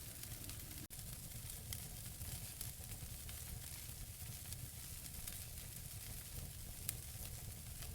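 Wood fire burning in a fireplace: scattered sharp crackles and pops from the burning logs over a low steady rumble, with one louder pop about seven seconds in. The sound cuts out for an instant about a second in.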